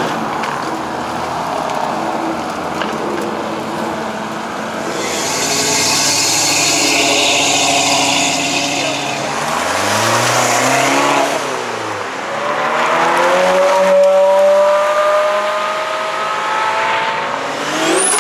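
Sports cars pulling away and accelerating past one after another, their engines revving up and falling off. One car sweeps past about ten seconds in, and another revs up steadily through the last few seconds.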